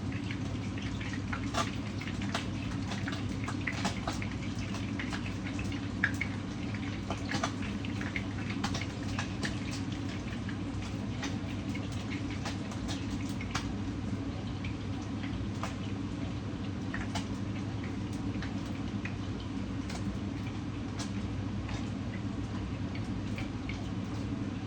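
Fish pan-frying in hot oil: scattered crackles and pops of spattering oil, thicker in the first half, over a steady low hum.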